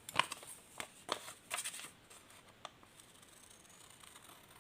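Scissors snipping through paper, several short cuts in the first two and a half seconds, then only faint paper handling.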